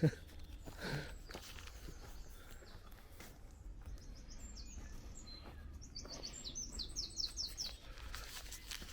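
A songbird calling outdoors: a few high chirps from about four seconds in, then a quick run of short falling notes, about six a second, for under two seconds. A steady low rumble of background noise runs beneath it.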